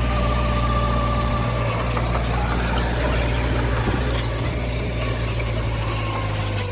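Heavy diesel earthmoving machinery running steadily with a deep engine hum, with light metallic clicks in the second half.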